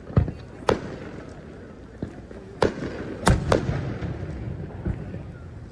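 Aerial fireworks bursting: a string of sharp booms at irregular intervals, several close together about three seconds in, with a low rumble between them.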